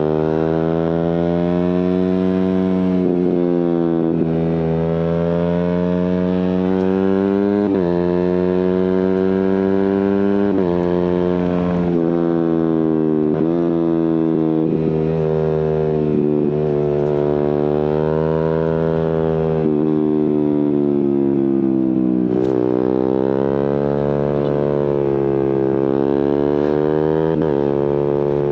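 Suzuki GSX-R150's single-cylinder four-stroke engine through an aftermarket Prospeed exhaust, revving up and down under way. Its pitch climbs and drops repeatedly, with abrupt jumps every few seconds as gears are changed by quickshifter and autoblipper.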